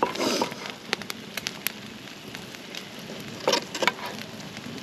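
Wood campfire crackling and popping, with many sharp snaps, and two louder clattering sounds, one near the start and one about three and a half seconds in.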